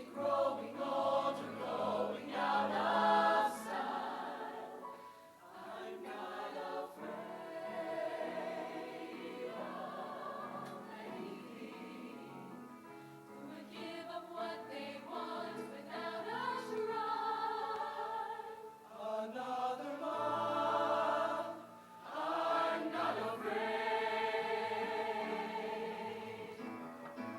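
High school show choir singing in phrases, the music swelling and easing with short breaks between lines.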